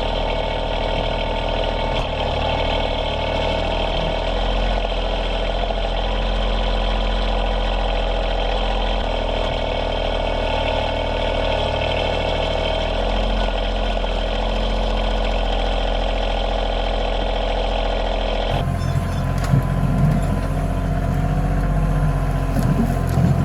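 KIOTI CK2620 compact tractor's diesel engine running steadily under loader work. The engine sound changes abruptly about eighteen seconds in, then carries on with heavier low rumbling.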